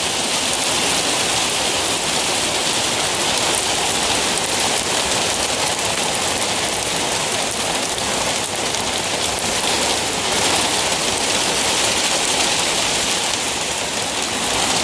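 Heavy rain falling steadily, a dense, even hiss made of countless drops striking the ground and plants.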